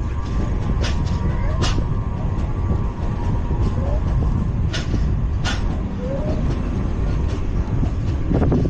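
LHB passenger coach running at speed on the track, heard from on board: a steady loud rumble of wheels on rail. There are sharp clacks in two pairs, about a second in and again near the five-second mark.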